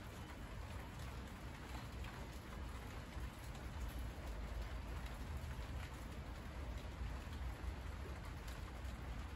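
Steady rain falling on monstera leaves: an even hiss of many small drop ticks over a low, steady rumble.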